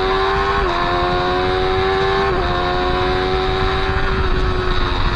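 Motorcycle engine pulling hard on track with two upshifts, about a second and two and a half seconds in, each a sudden drop in engine pitch; afterwards it holds a steady note that eases off slightly. Steady wind rush runs underneath.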